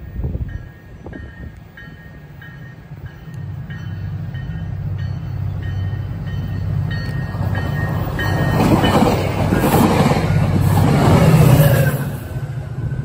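Grade-crossing bell ringing in a steady repeating pattern while a SunRail commuter train approaches and then passes close by. The train's rumble and wheel noise build steadily, loudest a little before the end.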